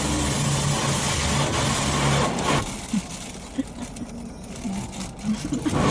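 Car engine idling, heard from inside the cabin; the hum cuts off suddenly about two and a half seconds in, leaving a quieter background with a few soft clicks.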